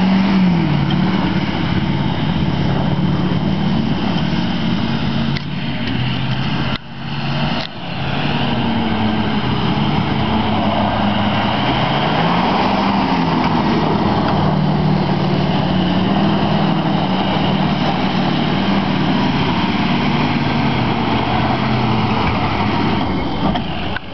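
Big truck's engine running hard off-road, its pitch rising and falling as it revs up and eases off again, with a brief drop in sound about seven seconds in.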